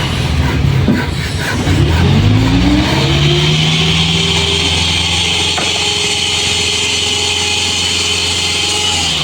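Isuzu dump truck's diesel engine revving up over about three seconds and then holding at raised speed, with a steady high whine above it. The engine drops back right at the end.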